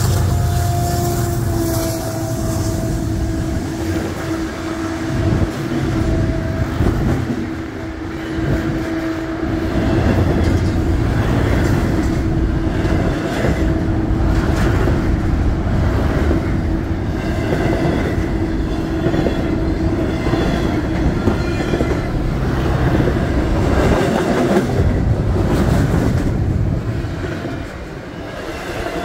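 Freight train passing below: the diesel locomotives give a steady hum for the first six or seven seconds, then double-stack container cars roll by with a continuous rumble and rhythmic wheel clatter over the rails.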